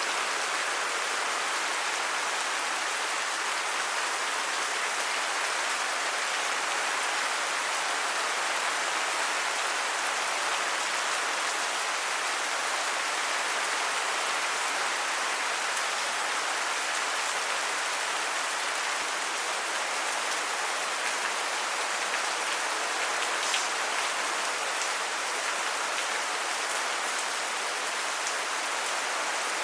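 Steady rain falling and pattering on surfaces, an even hiss with no change in strength.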